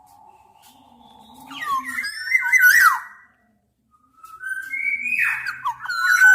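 Black-naped oriole giving two fluty, whistled song phrases of gliding notes, with a pause of about a second between them.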